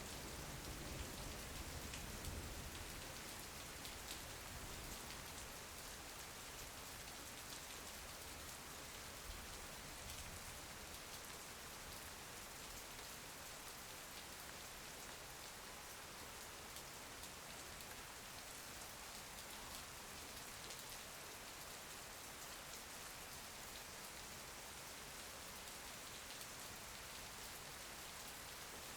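Steady rain falling, an even soft patter, with a faint low rumble in the first few seconds.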